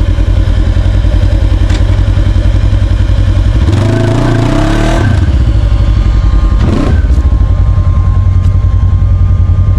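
Side-by-side UTV engine running hard and steady under load as the stuck machine tries to drive forward, its back wheel spinning for grip.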